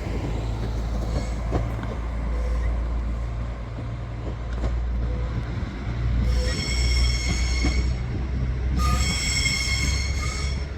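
A diesel train moving through the station with a steady low rumble. Twice, about six and nine seconds in, a high-pitched wheel squeal rises over it, each bout lasting a second or more.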